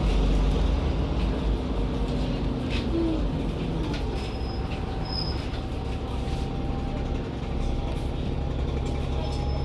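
Cabin sound of an Alexander Dennis Enviro400 double-decker bus with a Voith automatic gearbox running: a steady low engine and drivetrain rumble, with a thin steady whine coming in about four seconds in and a few light rattles.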